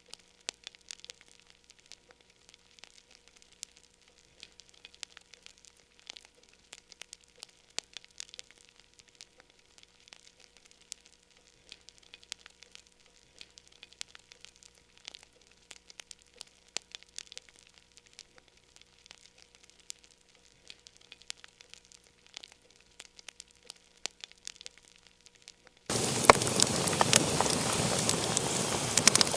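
Wood fire in a fireplace crackling: sparse, quiet pops and snaps for most of the time, then near the end a sudden step up to a louder, steady hiss thick with crackles.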